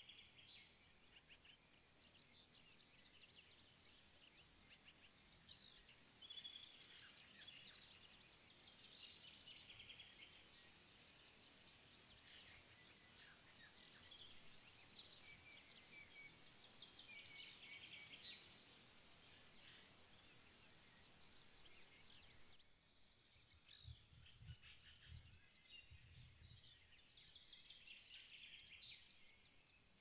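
Faint birdsong: scattered chirps and rapid, repeated trills of small birds, recurring every few seconds.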